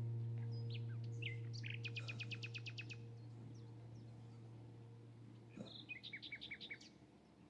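Birds chirping, with a fast trill of about eight notes a couple of seconds in and another trill near the end, over a low sustained note that slowly fades away.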